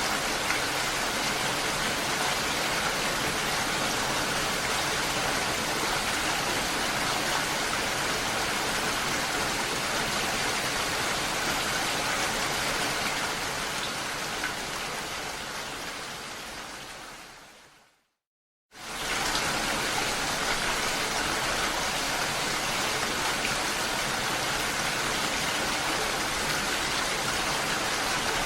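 Steady rain falling, an even hiss. About two-thirds of the way through it fades away to silence, then cuts back in suddenly under a second later.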